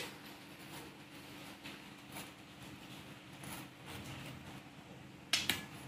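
Steady hiss of heavy rain falling, with a low steady hum beneath it and a couple of sharp clicks near the end.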